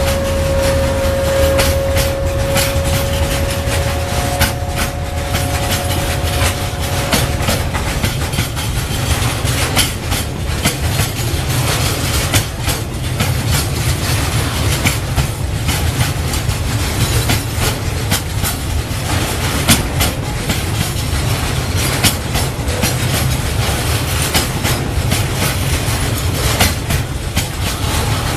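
Freight train of railway tank wagons rolling slowly: a steady low rumble with irregular clicks and clanks from the wheels over the rail joints. A thin steady squealing tone fades out about seven seconds in.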